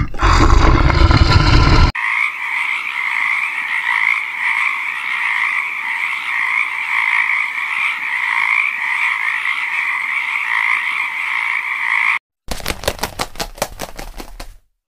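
A chorus of frogs croaking steadily and densely for about ten seconds, then cutting off abruptly. A loud, noisy sound precedes it for the first two seconds. After a short silence, a rapid rattle of evenly spaced pulses follows near the end.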